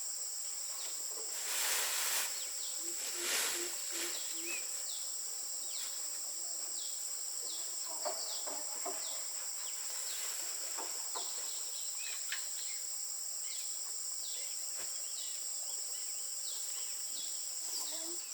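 Outdoor insect drone, a steady high-pitched trill of crickets or cicadas, with short falling bird chirps repeating about once a second. Two brief rushes of noise come in the first few seconds.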